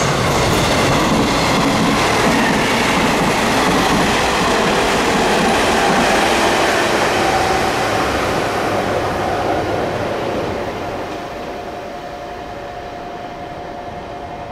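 Nishitetsu 5000 series resistance-controlled electric train passing through a station at speed, loud for about ten seconds and then fading as it moves away.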